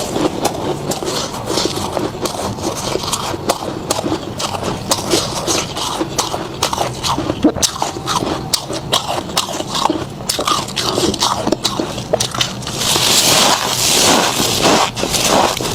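Close-up biting and chewing of freezer frost, a dense run of sharp icy crunches and crackles, growing louder and thicker for a couple of seconds about 13 seconds in.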